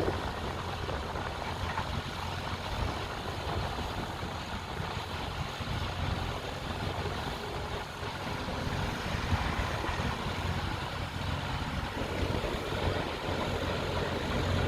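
Steady low engine rumble from heavy construction machinery running at idle.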